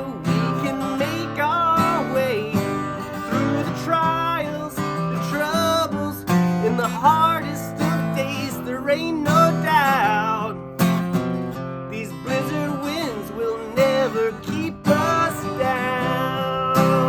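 Acoustic guitar strumming chords in an instrumental passage of a song, with a melody line sliding in pitch above it.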